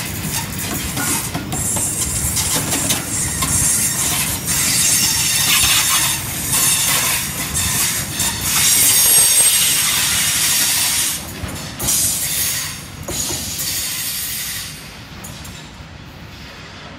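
Bogie steel-carrying flat wagons of a freight train rolling past, their wheels clattering over the rails with a high metallic hiss. The last wagon passes about three-quarters of the way through, and the sound drops away to a fainter rumble as the train pulls away.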